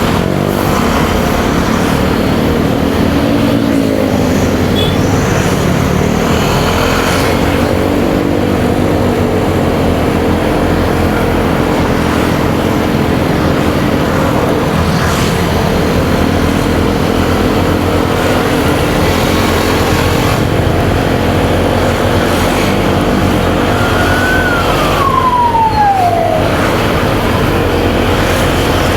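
Motorcycle engine running on the road with wind and tyre noise, its pitch rising and falling as it speeds up and eases off. Near the end, a single tone slides steadily downward over about two seconds.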